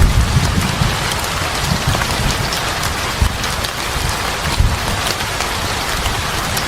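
Steady heavy rain, an even hiss with scattered sharp ticks of drops or crackles, over an uneven low rumble.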